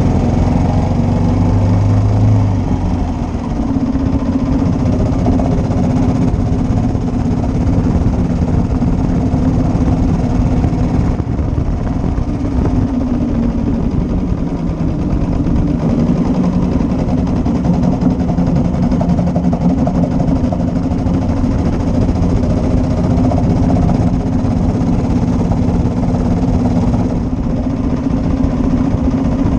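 1941 Matchless G3L's 350 cc single-cylinder four-stroke engine running steadily, its note drifting slightly up and down.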